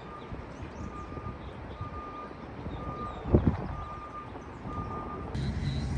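Vehicle reversing beeper sounding a steady single-pitch beep about once a second over a low rumble, with one loud thump a little past halfway.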